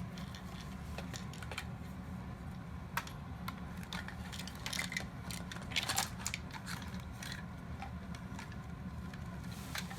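Scattered light clicks and taps of plastic toy-robot parts being handled during disassembly, a few sharper ones about three, five and six seconds in, over a steady low hum.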